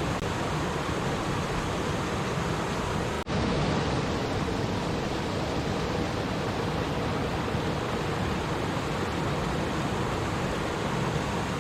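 Flowing stream water, a steady rushing babble, broken by a momentary dropout about three seconds in.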